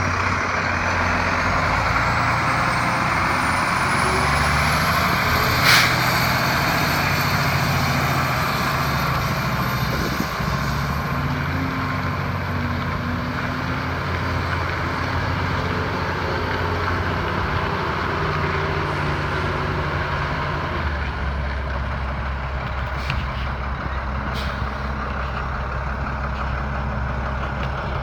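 Diesel engine of a Freightliner M2 106 dump truck running steadily, with a high whine that rises over the first few seconds, holds, and falls away about three-quarters through as the engine note drops. A sharp pop comes about six seconds in and two short clicks near the end.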